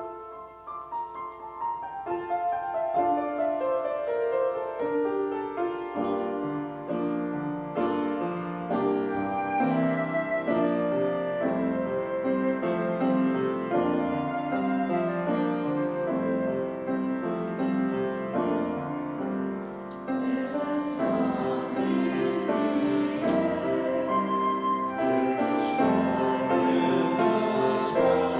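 Piano music starting suddenly out of near silence, notes and chords played at a flowing pace, with the sound filling out from about two-thirds of the way through.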